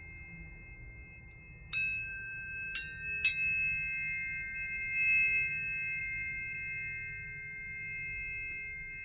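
Planetary tuning forks ringing with several steady high tones. About two seconds in they are struck three times, the last two close together, and each strike gives a bright metallic ping that fades while the tones keep ringing.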